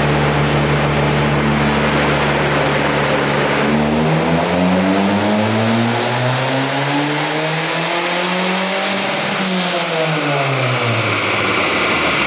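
Turbocharged Ford Focus 2.0 Zetec engine under a dyno pull. It runs steady for about four seconds, then revs climb for about five seconds with a rising turbo whistle above the engine note. It peaks, then lets off and the revs fall away.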